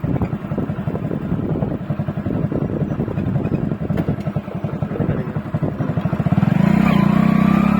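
Motorcycle engine running steadily on the move, its rapid firing pulses even throughout. About six seconds in, a louder steady pitched tone rises over it and holds to the end.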